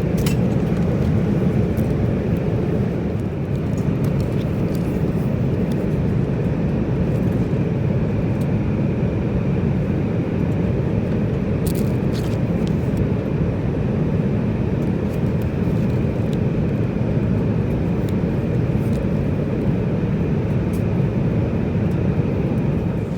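Steady low rumble of a Boeing 787-9's engines and airflow, heard from inside the passenger cabin.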